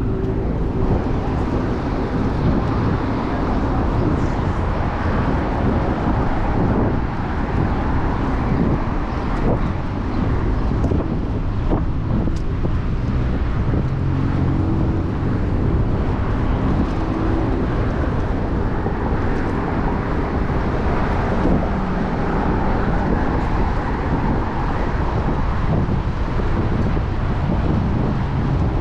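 City street traffic: cars running and passing, heard as a steady rumble with engine hum and a few light clicks.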